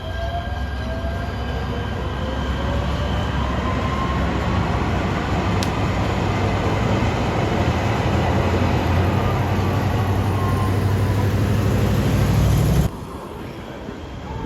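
Metro Rail train running past, a steady rumble of wheels on rails that slowly grows louder, with faint gliding whines from the motors or wheels. It cuts off suddenly near the end.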